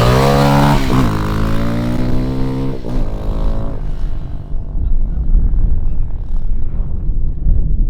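Dirt bike engine running, its note rising and falling with the throttle for about four seconds, then giving way to a low, steady rumble with no engine note.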